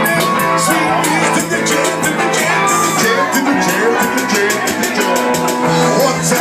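Live band music with a steady beat and percussion, with sustained pitched instrument lines.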